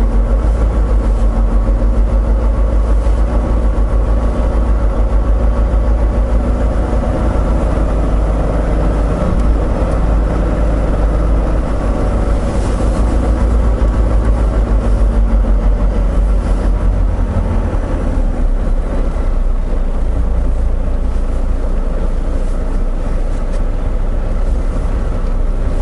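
Volvo VNL860 semi-truck's diesel engine idling steadily, with a deep, even rumble.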